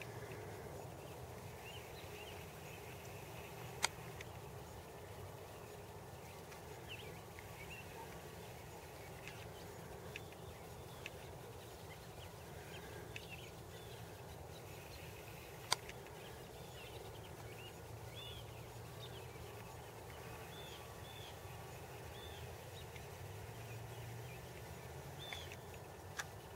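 Small birds chirping at scattered intervals, short high calls that come more often in the second half, over a steady low background rumble. Two sharp clicks stand out, about four seconds in and again about sixteen seconds in.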